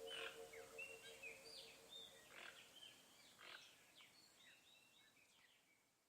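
Faint birdsong: many short chirps and whistles with a few brief harsh calls, fading out toward the end. A held low tone dies away in the first half second.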